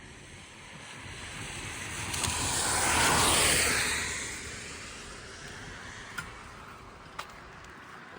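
A vehicle passing on a wet road: its tyre hiss swells to a peak about three seconds in and then fades away, over a steady patter of rain.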